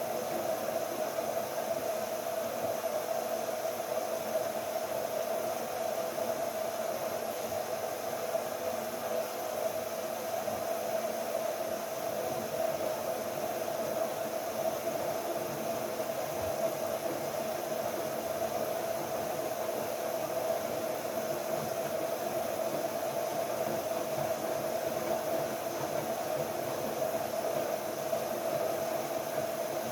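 LG Direct Drive 8.5 kg washing machine running mid-cycle: a steady, even whir and hiss with a constant mid-pitched hum, with no pauses or changes.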